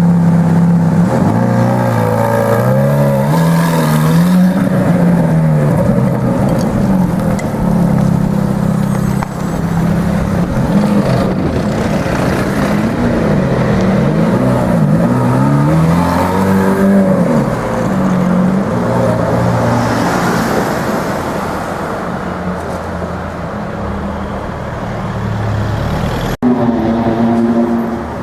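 Ferrari F430's 4.3-litre V8 revving again and again, its pitch rising and falling between steadier stretches of running. The sound breaks off for a moment near the end.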